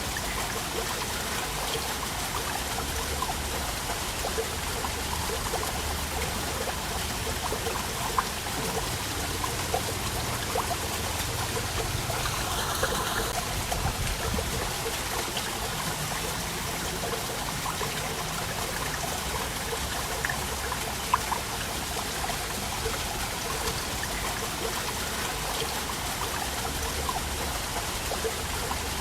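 Waterfall: a steady rush of falling water, with a few brief louder splashes.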